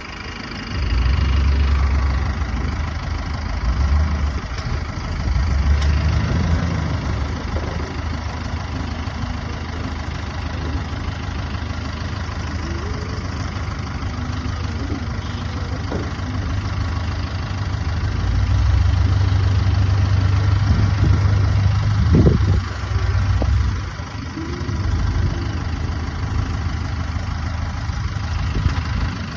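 Vehicle engine running steadily with a low rumble that swells louder a few times, with a few short knocks over it.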